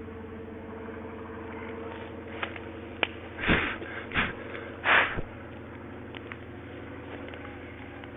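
A steady engine drone, with three short breathy puffs on the microphone between about three and a half and five seconds in.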